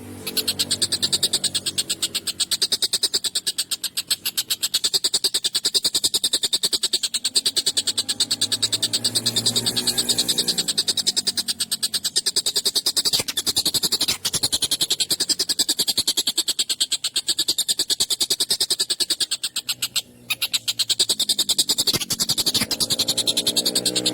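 Tengkek buto (kingfisher) calling in a harsh, very fast rattling trill, high-pitched and near-continuous, with a brief break about twenty seconds in.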